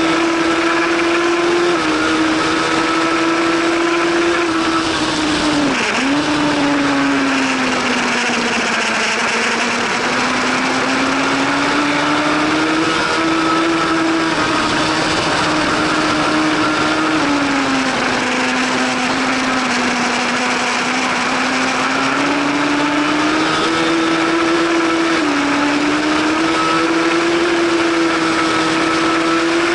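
Racing superbike engine running hard at high revs, with a steady rush of wind. Its pitch falls and climbs again several times, dips sharply about six seconds in, and drops in small steps a few times.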